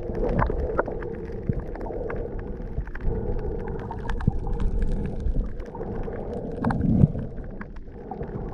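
Muffled underwater sound: a low rumble and water noise with many scattered sharp clicks and crackles, as heard through a submerged camera while snorkelling.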